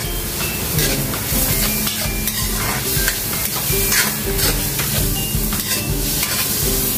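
Chopped tomato, onion and garlic frying in oil in a stainless-steel wok, sizzling steadily while a spatula stirs them around the pan with repeated short scraping strokes.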